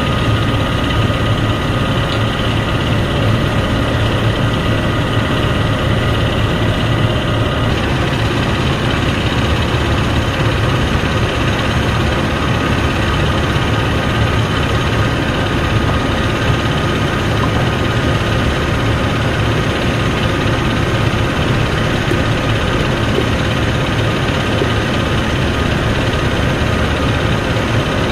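Heavy engine running steadily: a deep hum with a thin steady whine on top. About eight seconds in, some of the higher tones change.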